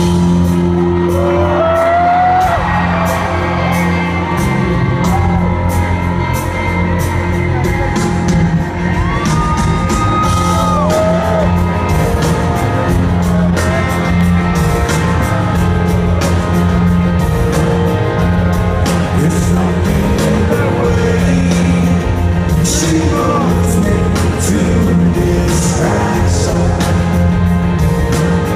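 Live rock concert heard from within the audience in a large hall: a steady low instrumental drone from the stage, with crowd cheering, whistling and clapping over it, the whistles and shouts strongest in the first dozen seconds.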